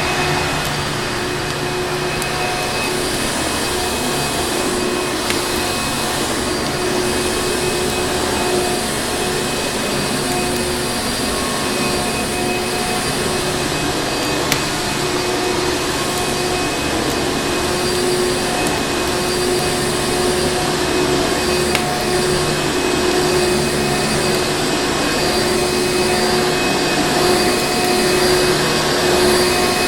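Vacuum cleaner running steadily: an even rushing of air under a constant motor whine, with a couple of faint clicks about halfway through.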